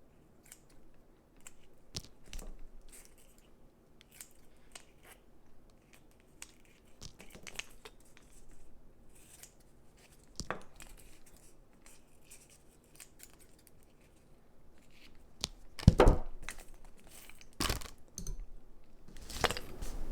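Artificial Christmas wreath decorations being handled and pressed into place: scattered crinkling and rustling with light knocks, the two loudest knocks about 16 and 18 seconds in.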